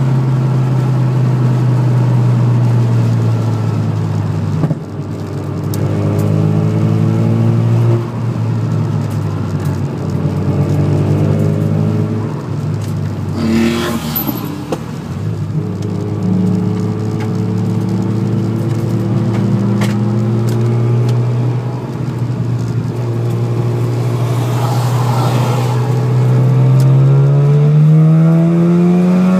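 Car engine heard from inside the cabin while driven hard on a circuit. It revs up through the gears with quick drops at each shift early on, falls away under braking into a bend about halfway through, then climbs steadily again toward the end.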